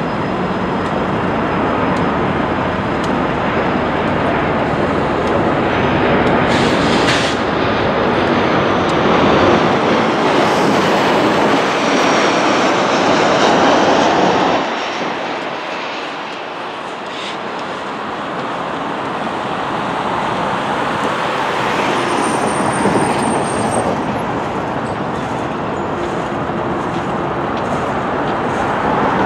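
Freight train's covered gondola cars rolling past, a steady noise of wheels on rail that eases briefly about halfway through.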